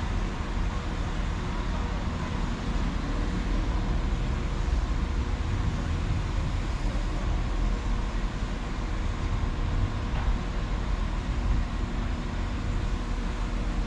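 A train running steadily at a station platform: a continuous low rumble with a faint steady hum over it.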